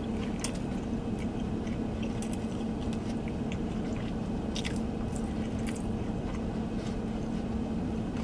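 A person chewing a mouthful of thin-crust pepperoni pizza, with scattered small crunches, over a steady low hum.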